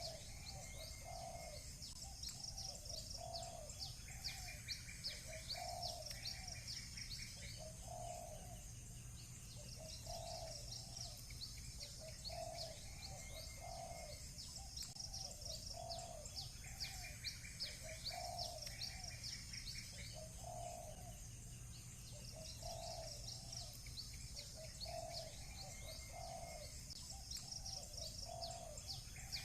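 Doves cooing over and over, a low coo every second or two, under dense high chirping of small birds with short trills now and then. A low steady hum runs beneath.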